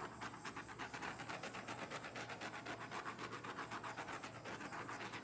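Faint rhythmic hissing that pulses several times a second, from the tool being used to pop air bubbles in freshly poured acrylic paint.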